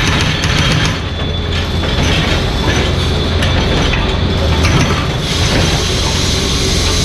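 Mini excavator diesel engine running with a steady low hum under metallic clattering and clicking, with rapid, even ticks in the first second.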